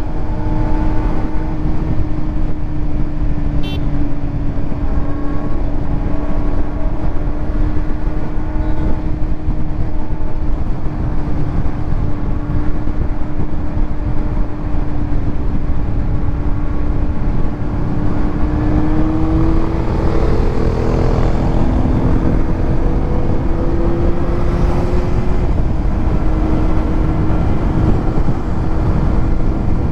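2026 Kawasaki Z900's inline-four engine running through a titanium Arrow exhaust while riding, a steady engine note that rises about two-thirds of the way through and then drops back, over a constant low wind rush.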